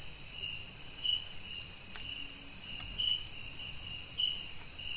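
Night-time chorus of forest insects such as crickets: a steady high-pitched shrill drone, with short chirps repeating about every half second to a second.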